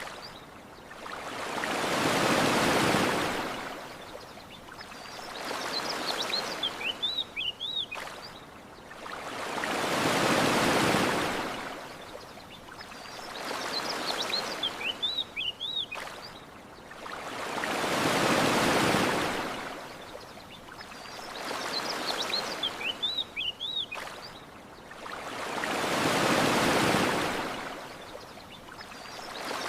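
Ocean waves washing onto a shore, with a big swell about every eight seconds and a smaller one between. A small bird's chirping phrase comes in the lull before each big swell. The same eight-second stretch repeats over and over as a loop.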